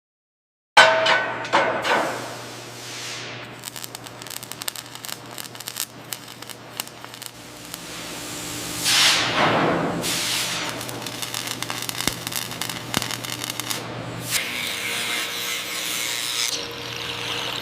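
Workshop tool sounds that start suddenly with a loud hit about a second in: rubbing and scraping with many quick clicks over a steady low hum, a couple of falling whooshes, and a brighter hiss taking over near the end.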